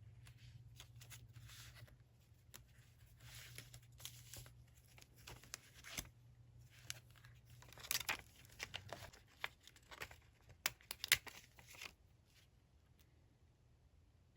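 Paper handling during diary decorating: rustling and tearing of paper or stickers, with quick small clicks and taps. These are loudest about two-thirds of the way in and stop shortly before the end.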